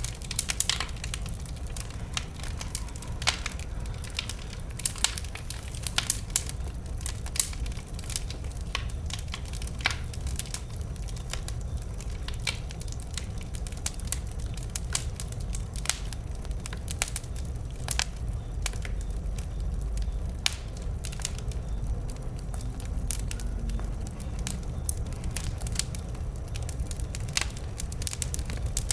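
Wood burning in a bonfire: irregular sharp crackles and pops, several at a time in bursts, over a steady low rumble.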